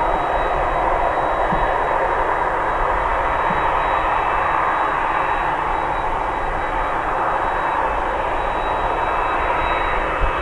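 Jet engines of a Boeing 767-300 airliner running steadily. The engine noise is an even rush with a faint high whine that neither rises nor falls.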